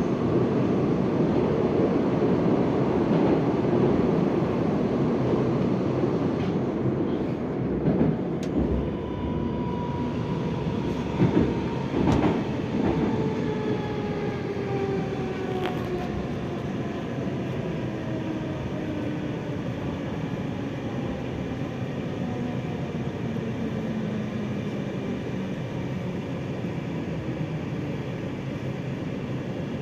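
81-740.1 metro train running through the tunnel, its wheels rumbling with a few sharp knocks, then from about ten seconds in a steady falling electric whine from its traction drive as the train slows toward the station.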